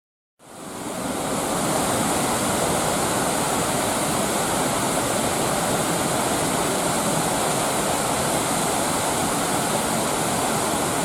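Waterfall rushing: a steady, unbroken sound of falling water that fades in about half a second in.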